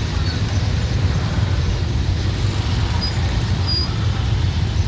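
Steady city traffic noise from motorbikes, cars and tuk-tuks running past, with an even low rumble throughout.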